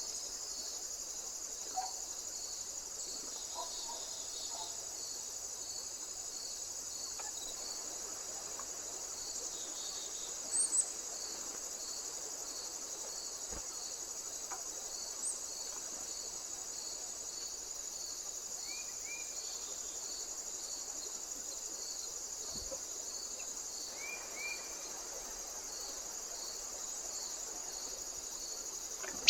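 Steady high-pitched chorus of crickets, with a softer chirp repeating about twice a second beneath it. Two short knocks stand out about ten seconds in.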